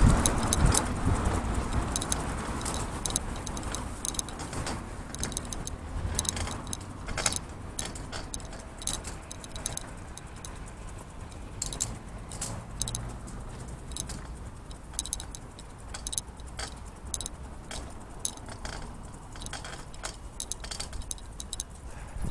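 Bicycle rattling as it is ridden: irregular light metallic clicks and jingles, over a low rumble that eases in the first few seconds.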